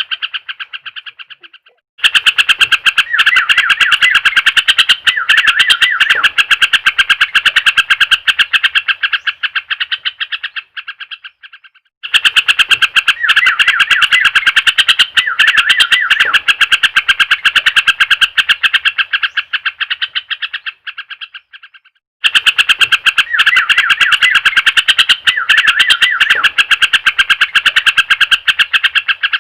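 Yellow-vented bulbul (trucuk) song played as a lure recording: rapid, dense chattering chirps in long bouts that break off briefly about every ten seconds.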